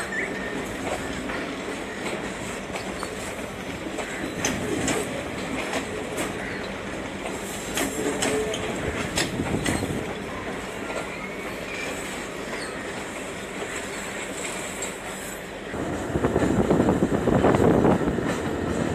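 Passenger train coaches rolling slowly over railway points and crossings, the wheels clacking irregularly over the rail joints. About 16 seconds in the sound jumps louder as a diesel locomotive approaches.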